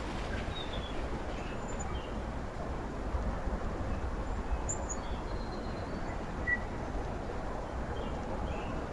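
A steady low outdoor rumble with a few short, faint bird chirps scattered through it.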